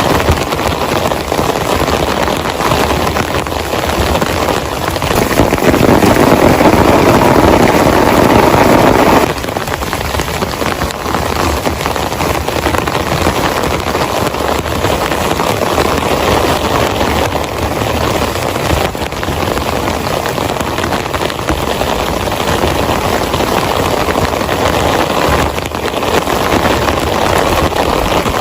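Heavy rain falling steadily in a downpour. About five seconds in it grows louder for a few seconds, then drops back suddenly.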